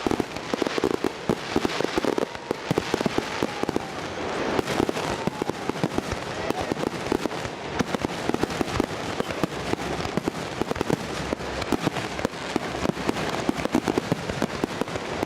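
Fireworks going off in a dense, continuous barrage of rapid crackling pops and bangs.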